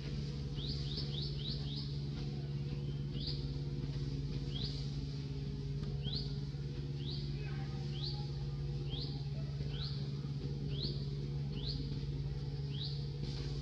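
A bird calling a short, quickly rising chirp over and over, roughly once a second, with a quick run of five near the start, over a steady low hum.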